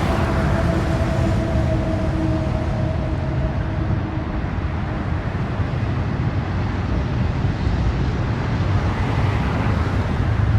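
Freight train's intermodal cars rolling past: a steady rumble of wheels on rail, with a faint steady ringing tone that fades over the first few seconds.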